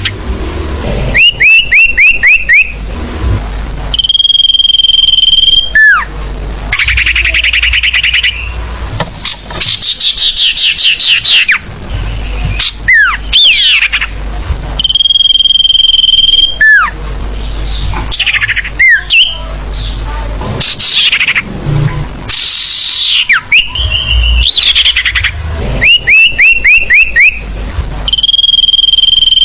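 Sirfu song played loud as a bird lure. It is a sequence of quick runs of about five descending chirps, long steady high whistles, rapid trills and sharp downward-sweeping notes, and the sequence comes round again after about 25 seconds.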